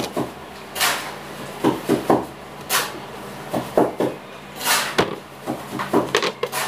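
Close-up eating of crisp mango slices: three louder crunches about two seconds apart, with smaller crunchy clicks and mouth sounds between them.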